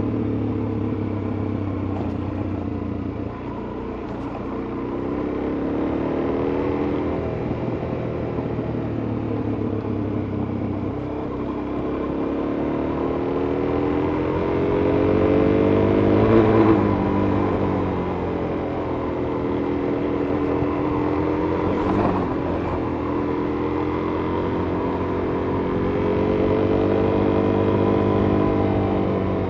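Suzuki DR-Z400S's single-cylinder four-stroke engine running under way, its pitch rising and falling with the throttle several times and highest about sixteen seconds in.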